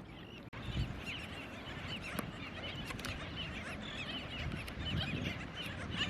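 A flock of birds on a beach calling, many short overlapping calls throughout, over a low rumble of wind on the microphone.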